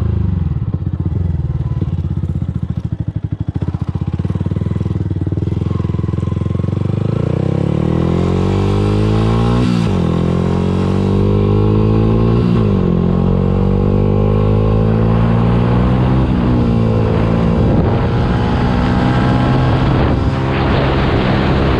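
Yamaha YZF-R125's 125 cc single-cylinder four-stroke engine running through its exhaust. It idles with a pulsing beat for the first several seconds, then the engine speed rises and stays higher, with the pitch dipping and climbing again a few times.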